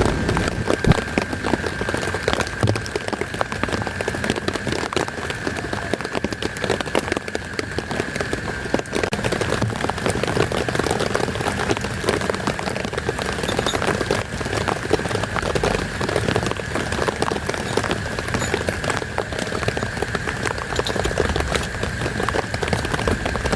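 Heavy rain falling steadily, dense drops pattering on a surface, with a thin steady high tone running underneath.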